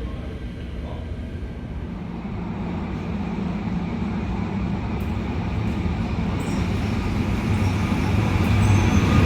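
A train pulling into the station, its low rumble growing steadily louder, with a faint high wheel squeal starting near the end.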